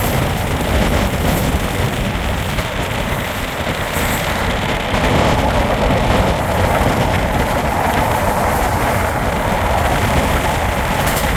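SE5 passenger train running along the track, heard from on board: a steady rumble of wheels and carriage that grows a little louder about five seconds in.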